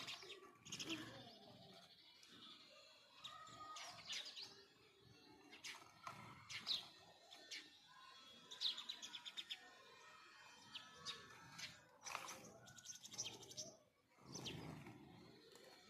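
House sparrows chirping faintly: scattered short, high chirps, with quick runs of rapid chirps about nine and thirteen seconds in.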